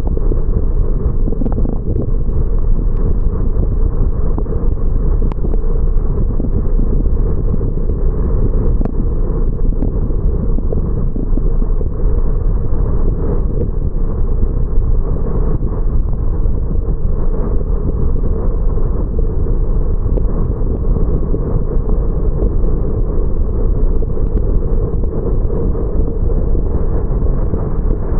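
Steady, muffled low rumble of a car driving: road and tyre noise with engine drone, picked up by an action camera, with a few faint clicks scattered through it.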